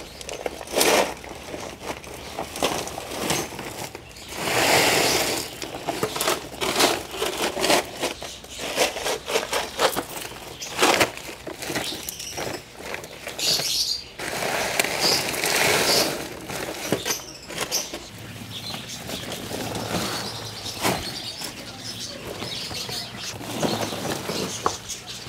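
Small caged birds fluttering their wings and chirping, with scattered clicks and rustles in irregular bursts.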